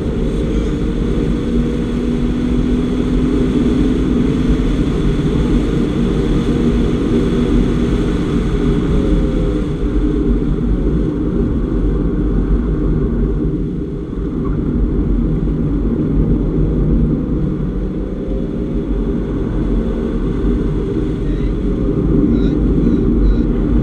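2015 Porsche Boxster's flat-six engine running hard at track speed, heard from inside the cabin together with road and wind noise. It eases off briefly a little past halfway, then pulls again.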